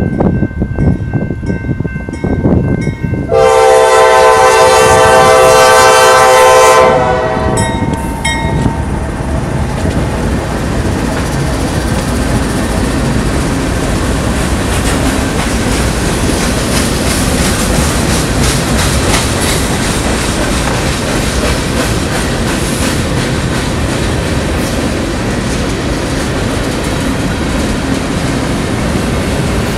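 Rebuilt GE AC44C6M diesel locomotive rumbling up and sounding its air horn in one long chord of about three and a half seconds, starting a few seconds in. A freight train of covered hopper cars then rolls steadily past, with the clickety-clack of wheels over the rail joints.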